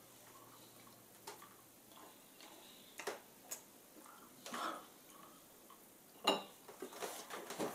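Quiet mouth and handling sounds of a man eating a chocolate protein bar: a few soft clicks and smacks of chewing, with one sharper click about six seconds in. Clothing rustling starts near the end.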